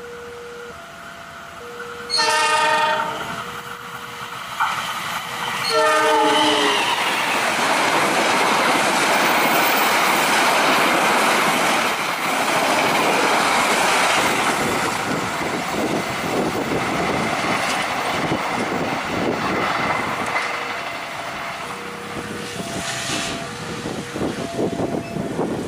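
CC201 diesel locomotive sounding its horn twice, a longer blast about two seconds in and a shorter one about six seconds in. Then the locomotive and its passenger coaches rush past at speed, the wheels clattering rhythmically over the rail joints as the train draws away.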